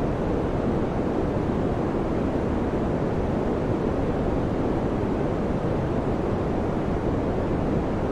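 Electric fan running: a steady, even whooshing noise, deepest in the low range, with no change in speed.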